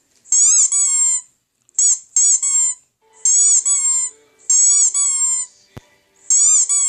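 Rubber squeaky dog toy squeezed repeatedly: about five bursts of two or three high squeaks each, every second or so. A single sharp click comes near the end.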